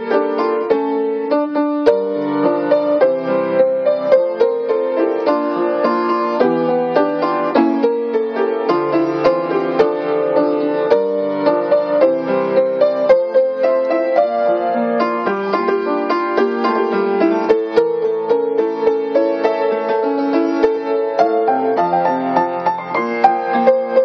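Solo piano playing a gentle pop ballad melody over a steady chordal accompaniment, a continuous run of struck notes.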